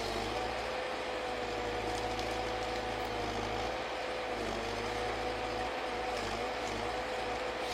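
Forestry harvester running: a steady engine drone with a whine that wavers slightly in pitch.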